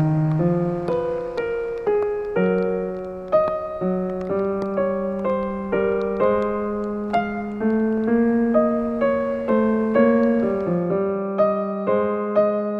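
Slow, calm solo piano music: single notes struck about one to two a second over soft held chords and low bass notes.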